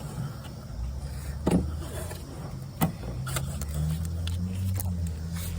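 Truck engine idling with a low, steady hum that rises slightly in pitch about halfway through, with two sharp clicks in the first half.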